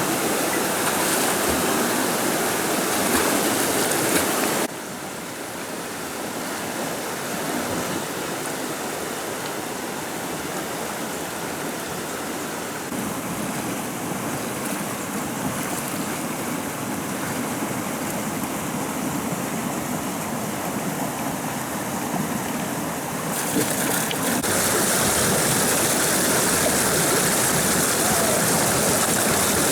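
Stream water running with a steady rush. It drops abruptly to a quieter, duller rush about five seconds in and jumps back to a louder, brighter rush near the end.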